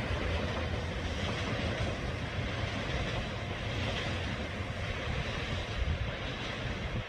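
Train running along the track, a steady rumble with rail noise.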